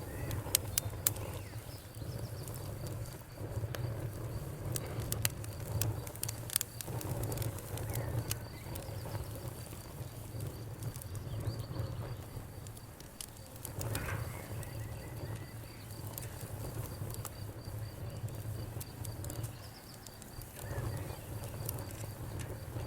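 Fireplace wood fire crackling, with sharp pops and snaps scattered irregularly, a cluster of them in the first second and more around the middle, over a low steady rumble.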